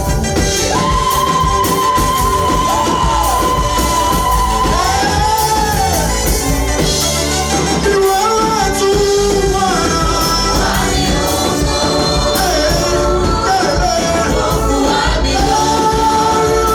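Gospel praise music: a group singing with drums and band accompaniment, with long held sung notes.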